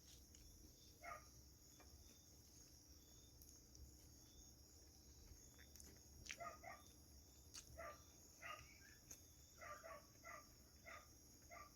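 Faint steady chirring of insects, with a dog barking faintly in a run of short barks from about six seconds in.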